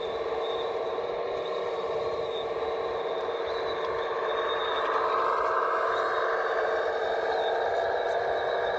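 Radio-controlled scale construction machine running with a steady motor whine, getting a little louder about five seconds in.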